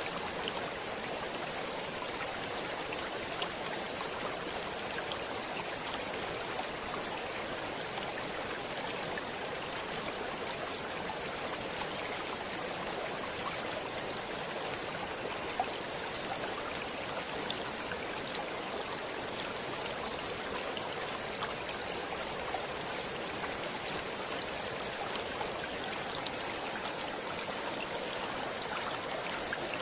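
Stream water running steadily over rocks, a continuous rushing with small splashes and drips.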